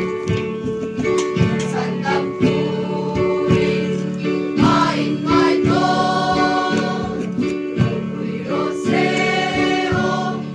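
A group of voices singing a Christian song in Mizo, holding long notes over a steady strummed or beaten accompaniment.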